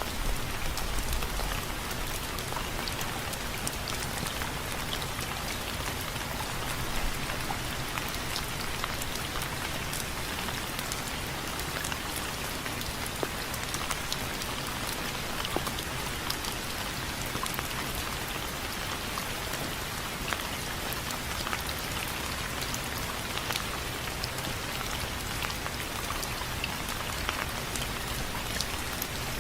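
Steady rain falling on a window frame, a continuous hiss with many sharp individual drops tapping on it.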